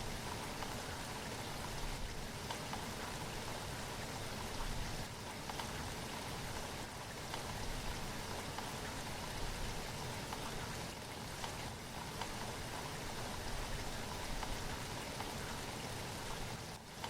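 Steady rain falling: an even hiss with scattered drop ticks, dipping briefly near the end.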